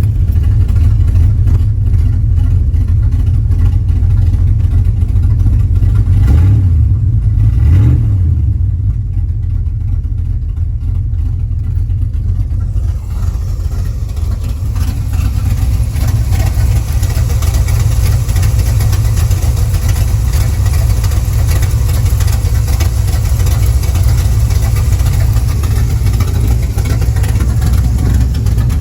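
Chevy 350 small-block V8 running with a steady low rumble. It is revved briefly twice, about six and eight seconds in, then settles back.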